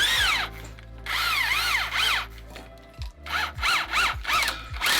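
Power drill whining up and down in short repeated trigger pulses, its pitch rising and falling about twice a second, with a gap a little past halfway through.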